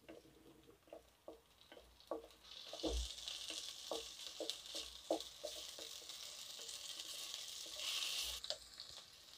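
Chopped onion, tomato and green chilli frying in oil in a kadhai, stirred with a wooden spatula: light, scattered taps of the spatula on the pan, with a steady sizzle starting about two and a half seconds in and stopping shortly before the end.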